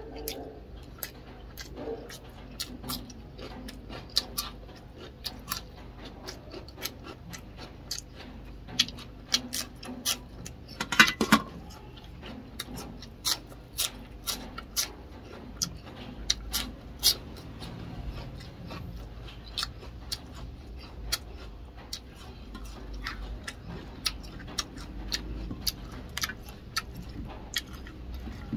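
Close-up eating sounds from a person chewing with their mouth open: many short crunches and wet smacking clicks, and a dense burst of crunching about eleven seconds in. They come from rice, fish and raw green vegetables being chewed and bitten.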